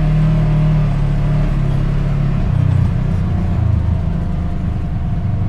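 Side-by-side UTV engine running under way; about halfway through its pitch drops as the throttle eases, then it runs steadily at a lower pitch.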